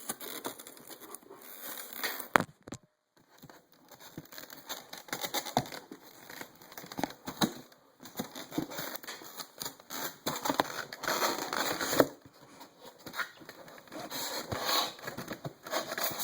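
Packaging being handled as a diecast model airliner is worked out of its box: irregular crinkling and rustling with scattered clicks and knocks, two sharp clicks standing out, one a couple of seconds in and one about three quarters of the way through.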